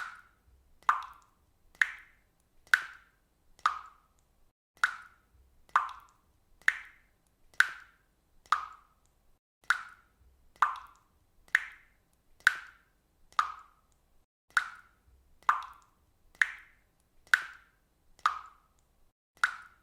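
Water dripping, single drops falling into water a little under once a second in a steady, even rhythm, each drop a short plop.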